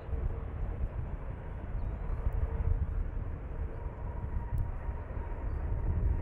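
Jet airliner engines running, a steady rumble with a faint whine that grows clearer in the second half.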